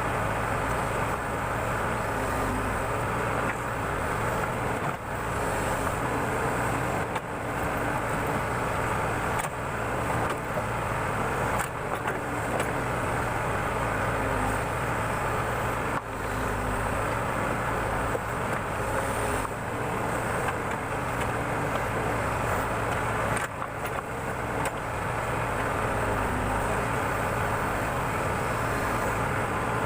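Backhoe loader's diesel engine running steadily as it digs, with brief dips in level every few seconds.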